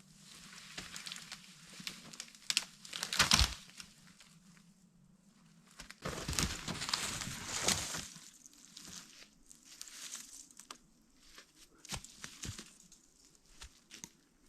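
Rustling and crinkling handling noise in irregular bursts, with a few sharp clicks and snaps; the loudest bursts come about three seconds in and again around six to eight seconds in.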